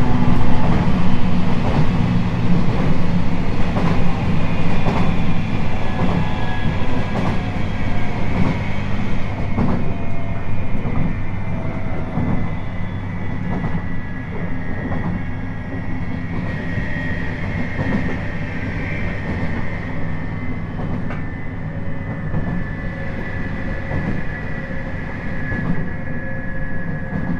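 Cabin running sound of a 719 series electric multiple unit between stations: a steady low rumble of wheels on rail with frequent clicks, and a high whine that grows clearer in the second half. The overall level eases off gradually.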